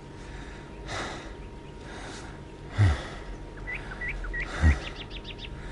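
Birds chirping: a few short hooked chirps, then a quick high trill, over a quiet outdoor background. Two soft, dull thumps, about three seconds in and again just before five seconds, are the loudest sounds.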